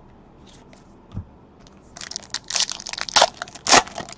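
A trading-card pack's wrapper being torn open and crinkled by hand: a dense run of loud crackling rustles from about two seconds in, after a soft knock about a second in.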